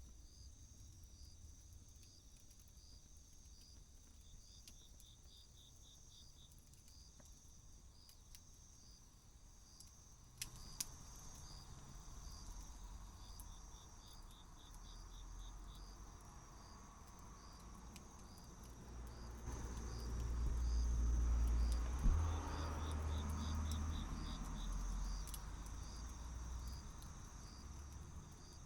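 Insects trilling in a steady high chorus, with short runs of rapid chirps every several seconds. A few sharp clicks come about halfway through, and a low rumbling noise swells up in the second half, peaking with a knock, then eases off.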